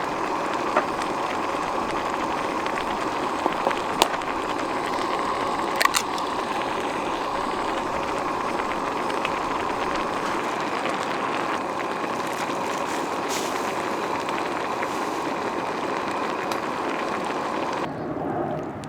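Steady hiss of a portable gas camping stove heating a pot of water for ramen, with a few light clicks and knocks of cookware; the sound drops off suddenly near the end.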